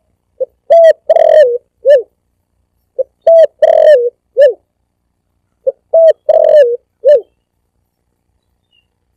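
Spotted dove cooing in a repeated phrase: a short note, then a longer wavering coo, then a closing note. The phrase comes three times, about every two and a half seconds, with dead silence between, as in a looped lure-call recording.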